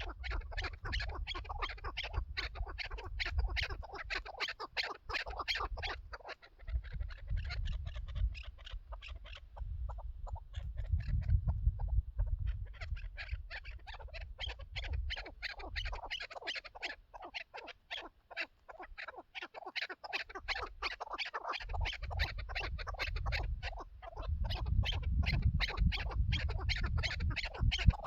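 Chukar partridge calling: long runs of rapid, evenly repeated clucking notes, with a couple of short lulls. A low rumble comes and goes underneath.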